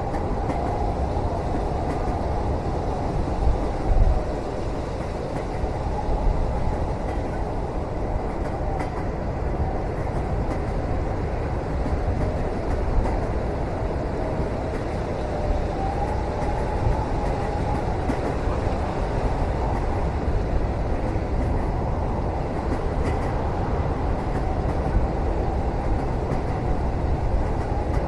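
Moving train heard from inside a passenger cabin: a steady low rumble with a faint wavering tone above it and a few soft knocks, the largest about four seconds in.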